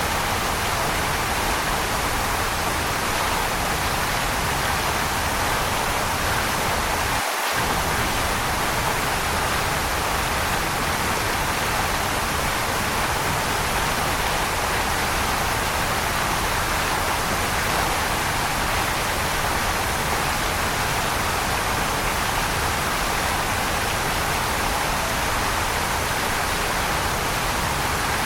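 Waterfall rushing: a steady, unbroken wash of falling water, with a momentary dropout of the low rumble about seven seconds in.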